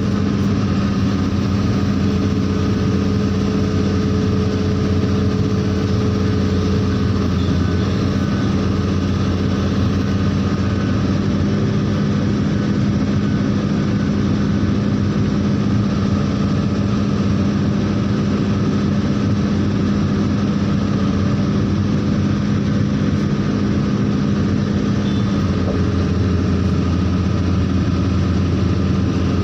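A heavy vehicle engine running steadily at a constant speed, a low, even hum with no revving.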